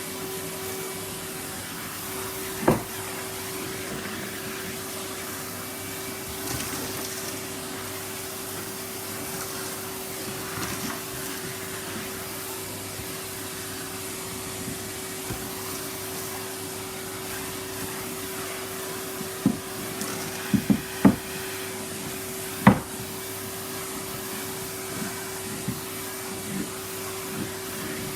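Numatic Henry canister vacuum cleaner running steadily with an even motor hum, its freshly unblocked pipe sucking freely. Sharp knocks break in about three seconds in and several more in quick succession near the end.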